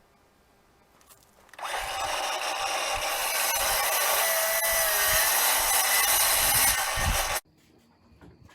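Power tool running through wood for about six seconds. It starts about one and a half seconds in and cuts off abruptly near the end.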